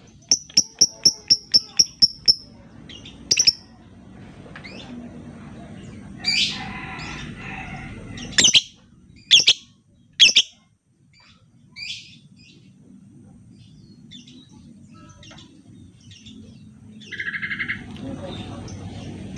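Lovebirds calling: a fast run of about ten sharp, high chirps in the first two seconds, then scattered loud, shrill calls and squawks, with a buzzy call near the end.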